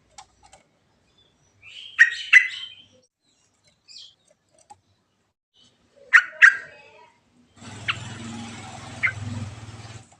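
Yellow-vented bulbul (trucuk) calling in sharp pairs of loud notes, twice. In the last two seconds or so a steady hiss with a low hum comes in under two more, fainter notes.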